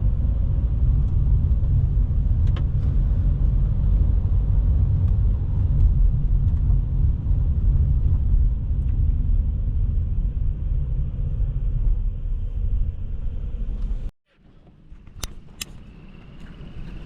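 Car driving on a rough road: a loud, steady low rumble of tyres and road noise. It cuts off suddenly about fourteen seconds in, leaving a much quieter background with a few sharp clicks.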